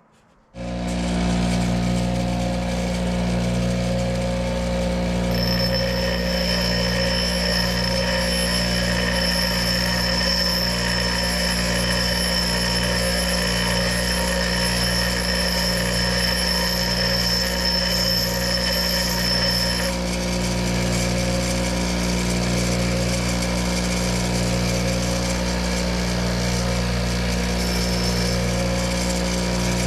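An electric power tool's motor switches on about half a second in and runs steadily, with an added high whine from about five to twenty seconds in, as when a steel workpiece is held against a spinning wheel.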